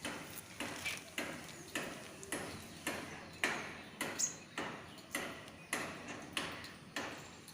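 Evenly spaced sharp knocks with a short ring, a little under two a second, and a single high bird chirp about four seconds in.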